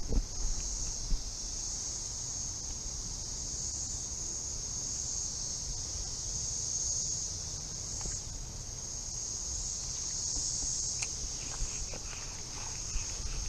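Chorus of cicadas: a steady high-pitched buzzing drone that swells and eases slightly, with a low rumble underneath.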